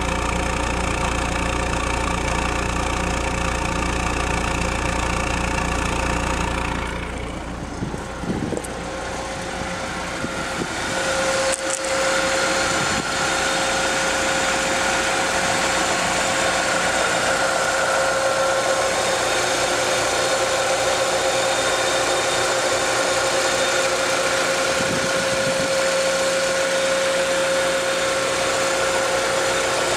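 BMW Z3's 1.9-litre four-cylinder engine idling steadily after a cold start, heard first at the tailpipe and then from the open engine bay. In the engine bay a steady whine sits over the idle.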